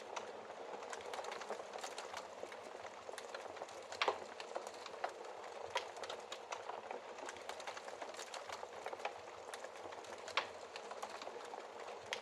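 Wood fire burning in a fireplace: a steady hiss of flames with dense crackling and a few louder pops, the loudest about four seconds in.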